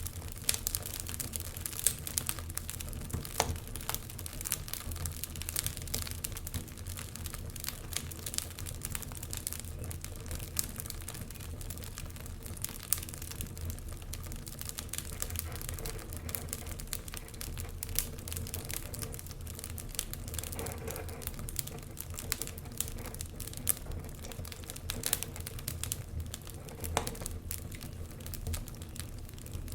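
Wood fire in a fireplace burning: logs crackling and popping in frequent irregular snaps over a low steady rumble of the flames.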